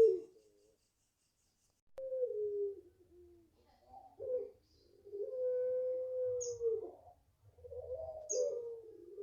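Puter pelung dove cooing: after a short pause, a falling coo, a short note, then a long drawn-out coo held about a second and a half, and another coo near the end. Three brief high chirps sound over the later coos.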